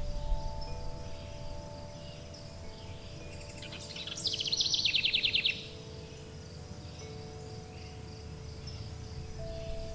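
A songbird's fast trill of rapidly repeated high notes, about a dozen in a second, midway through, over long, overlapping ringing tones of wind chimes and faint low background noise.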